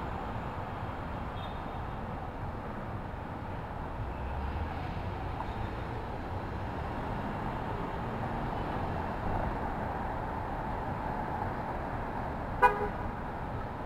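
Steady city street traffic noise, with one short car horn toot near the end.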